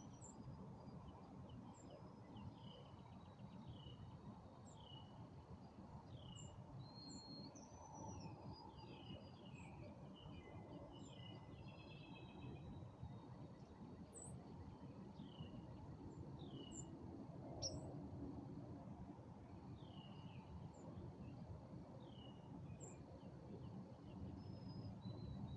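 Faint birdsong at dusk: many short, down-slurred chirps, a few brief trills and high notes, over a steady low background rumble.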